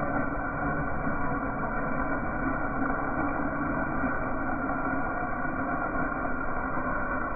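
Car engine and exhaust running steadily at a constant speed, with no revving, under a faint steady drone.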